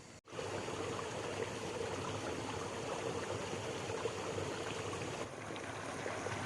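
Steady rush of running water, dipping briefly about five seconds in.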